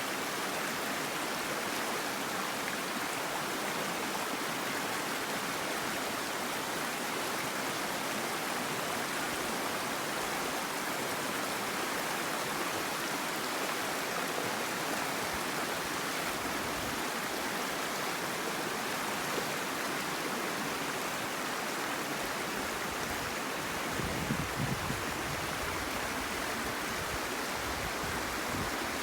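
Mountain stream water rushing steadily, with a few brief low thumps near the end.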